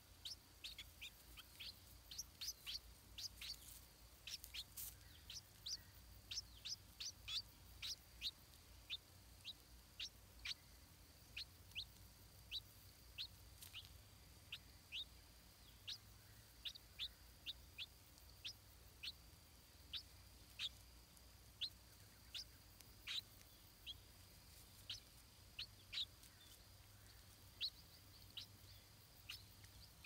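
Small bird chirping: short, thin, high chirps, each slightly falling in pitch, repeated irregularly one or two times a second.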